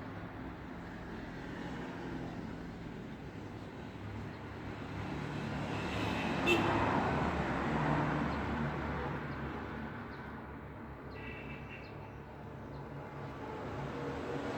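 Road traffic: a steady hum of passing cars and engines, swelling as one vehicle passes closer about halfway through.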